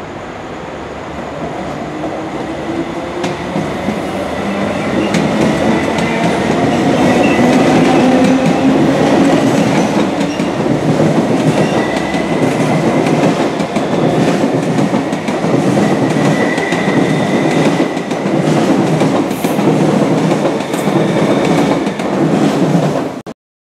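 A Metro-Cammell electric multiple unit of the East Rail Line, a mid-life refurbished set, running through a station at speed. It grows louder as it comes in, with a whine that rises in pitch, then a rapid, rhythmic clatter of wheels over rail joints as the cars pass. The sound cuts off suddenly near the end.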